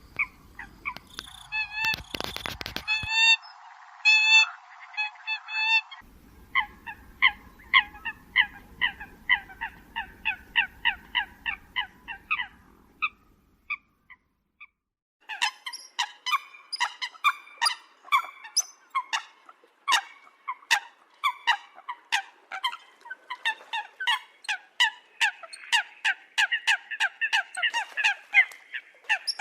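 Eurasian coots calling: rapid runs of short, sharp honking calls, several birds overlapping, with a brief rushing noise near the start and a pause of about two seconds midway.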